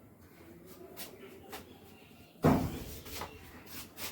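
A sudden heavy thump about two and a half seconds in, among a few lighter clicks and knocks of something being handled.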